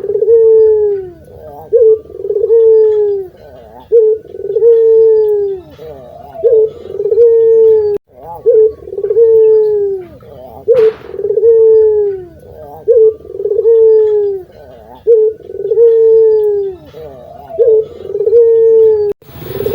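Puter dove cooing over and over in a steady rhythm: each phrase is a short note followed by a longer note that falls in pitch, about one phrase every two seconds. A sharp click comes about halfway through.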